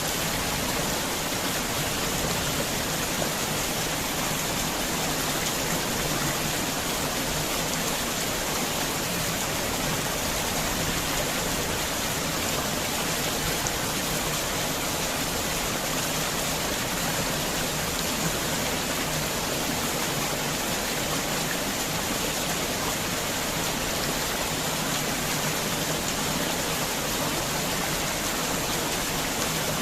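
Heavy rain falling, an even, unbroken hiss of water.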